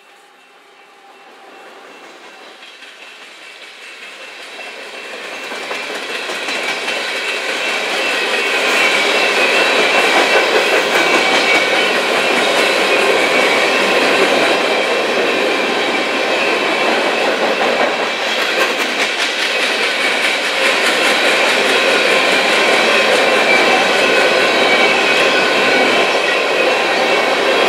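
Union Pacific coal train's hopper cars rolling past: a steady rolling noise with wheels clicking over the rail joints. It builds over the first several seconds, then holds steady and loud.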